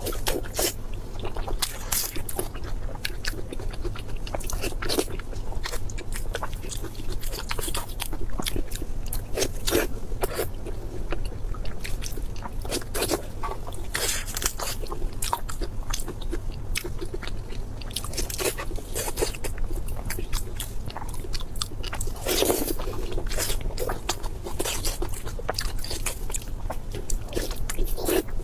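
Close-miked eating: a person biting and chewing crunchy food, a dense run of irregular crisp crackles and crunches, with a steady low hum underneath.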